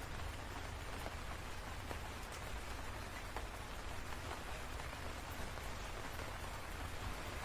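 Steady rain: a constant hiss with separate drops ticking sharply through it, over a low steady rumble.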